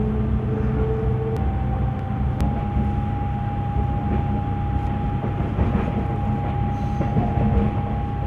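Passenger train running, heard from inside the coach: a steady rumble of wheels on the track with a constant hum held above it and an occasional sharp click.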